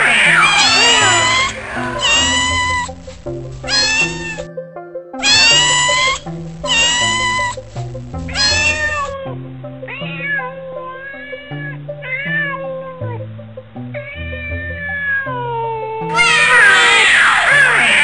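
Cats meowing over background music: many repeated meows, crowded together and loud at the start and again near the end, more spaced out in the first half, and fainter and lower-pitched in the middle.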